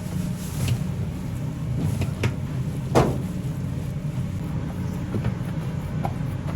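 Steady low machine hum in a kitchen, with a few sharp knocks or clinks, the loudest about three seconds in.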